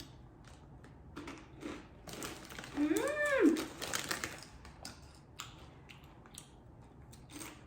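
Close-up crunching and chewing of rolled tortilla chips (Doritos Dynamite Chili Lemon), a run of crisp crunches, with a hummed "mmm" of enjoyment that rises and falls about three seconds in.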